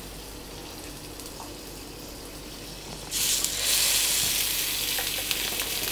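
Skewered paneer and vegetables sizzling on a hot oiled grill pan: the frying hiss starts suddenly about three seconds in, as the skewer goes down on the pan, and keeps on loudly.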